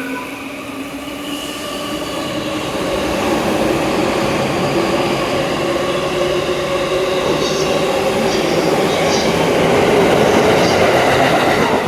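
Electric commuter train running along the platform: steady motor whine over rolling wheel noise, with a light wheel squeal, growing louder toward the end.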